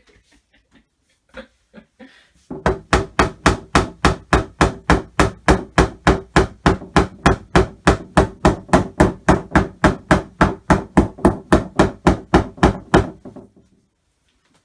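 Hammer blows driving wooden dowels into a flat-pack cabinet's panel: a fast, even run of about four strikes a second that starts a couple of seconds in and stops a second or so before the end.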